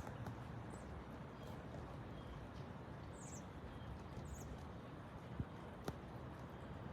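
Faint steady low rumble of outdoor background, with a few short, high bird chirps and two light clicks late on.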